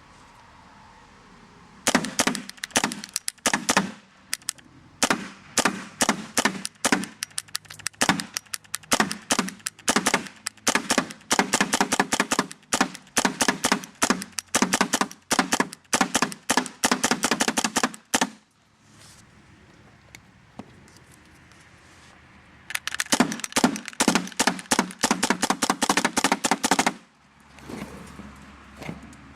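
Dye Proto SLG electropneumatic paintball marker firing paint in rapid, uneven strings of sharp pops, one long string with stutters and pauses, then a quieter stretch, then a second shorter string. The marker has an intermittent misfire fault, which the owner suspects lies in the micro switch or the circuit board.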